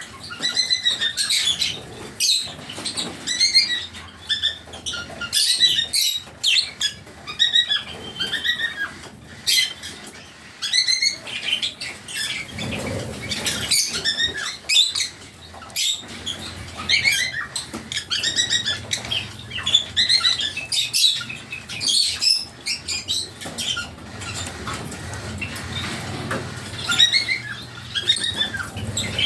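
Lovebirds chirping in a rapid, continuous stream of short high calls, with scattered sharp clicks.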